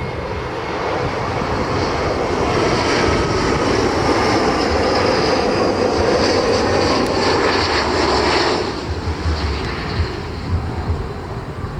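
Delta Connection regional jet on approach passing the microphone: jet engine noise building steadily with a high fan whine, then dropping off sharply about three-quarters of the way through. After that, wind buffets the microphone in low gusty thumps.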